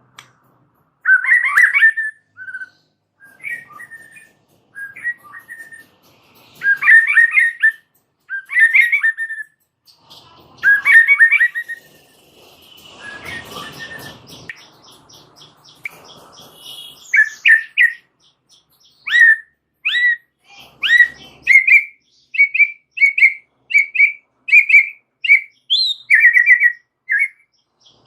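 White-rumped shama (murai batu) singing: short, loud phrases of quick chattering notes with pauses between them, turning about two-thirds of the way through into a run of short whistled notes repeated about twice a second.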